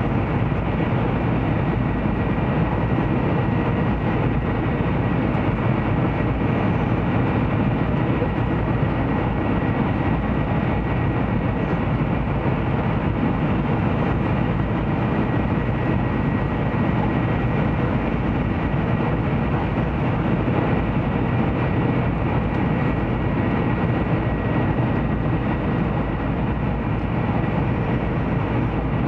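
Steady running noise inside the passenger cabin of a Taiwan High Speed Rail 700T trainset travelling along the line: an even, unbroken rumble with a faint steady high tone over it.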